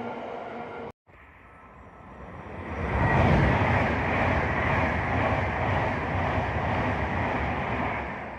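Electric train at a station: a steady motor whine cuts off abruptly about a second in, then a rushing rail rumble builds over a couple of seconds and holds loud and steady, as a train runs past the platform.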